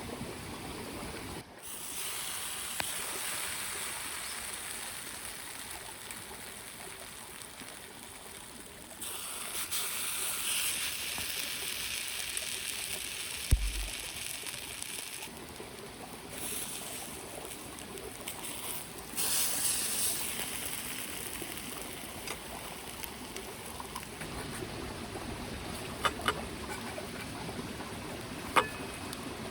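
Small mountain stream trickling and babbling steadily. Its loudness jumps abruptly a few times, and a few faint clicks sit over it.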